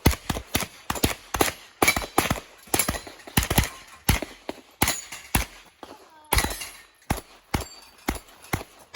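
Rapid semi-automatic gunfire: sharp shots in quick pairs and short strings with brief pauses between, starting abruptly.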